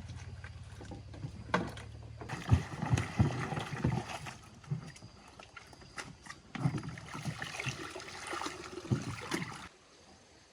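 Water splashing and sloshing with repeated knocks and clatter, over a low steady hum that stops about two seconds in; the sound cuts off abruptly near the end.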